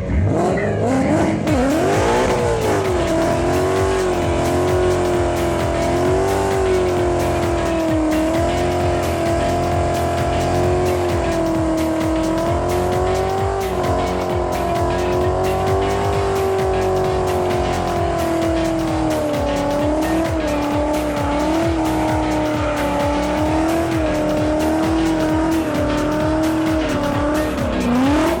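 A Mustang held at high revs through a long burnout, its engine note wavering up and down with the rear tyres squealing. The pitch dips and swings up near the end.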